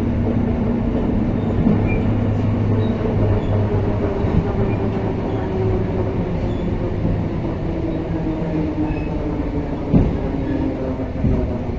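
Suburban electric multiple-unit train (elektrichka) running, heard from inside the carriage: a steady rumble of wheels on track with a low electric hum that fades about two-thirds of the way through. A single knock comes about ten seconds in.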